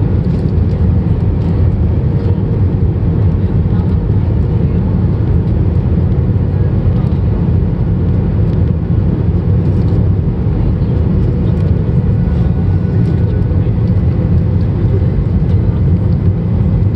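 Steady cabin noise inside an Airbus A321-232 airliner: engine and airflow noise, heaviest in the low range, with a faint steady hum above it and no sudden changes.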